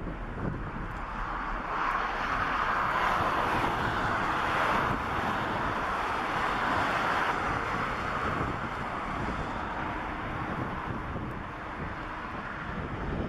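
Boeing 747-400 jet airliner's four engines at takeoff power, a broad rushing jet noise that swells about two seconds in, holds for several seconds and then slowly fades.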